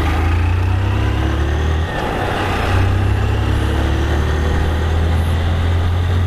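Motorcycle engine running while riding, pulling steadily; it eases off briefly about two seconds in, as at a gear change, then pulls again with its pitch slowly rising.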